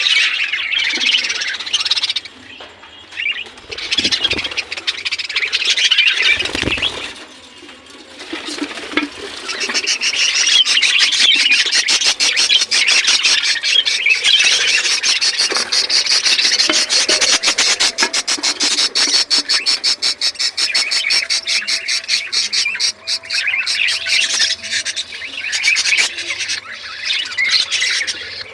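A flock of budgerigars chattering and chirping, a dense stream of fast high warbles and squawks that thickens after the first several seconds.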